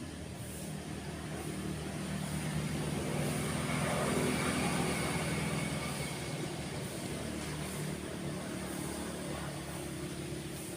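A motor vehicle passing by: its engine grows louder to a peak about four seconds in, then slowly fades, over a steady wash of surf.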